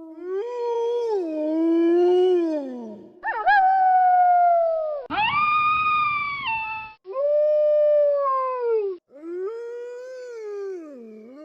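Wolves howling: about five long howls one after another, each gliding up and then down in pitch, with sudden breaks between them.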